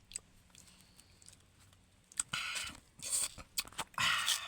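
Mango being bitten and chewed: quiet for the first two seconds, then three loud crunching bites.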